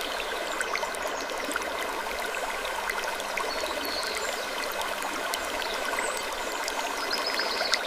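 Steady trickling of running water, speckled with small clicks, with a faint, brief high creak twice.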